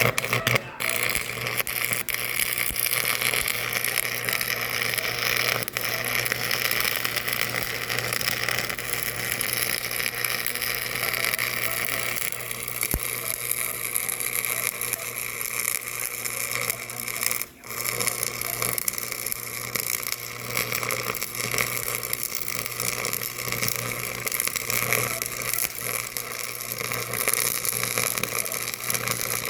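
A machine running steadily: an even mechanical noise with a constant low hum, which cuts out for a moment about two-thirds of the way through.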